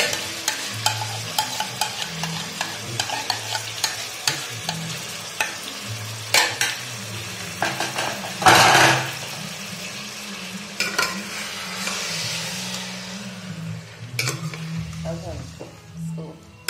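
Yoghurt-marinated chicken sizzling in hot oil in a pressure-cooker pot as it is scraped in and stirred with a metal spoon, the spoon clicking and scraping against the pot. A loud surge of sizzling about halfway through.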